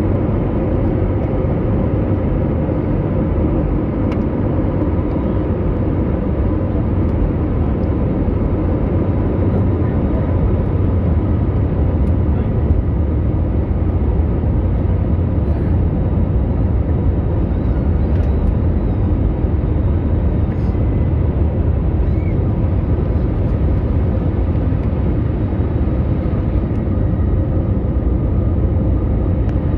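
Steady jet airliner cabin noise: a constant low rumble of engines and airflow with faint steady hums above it, unchanging throughout.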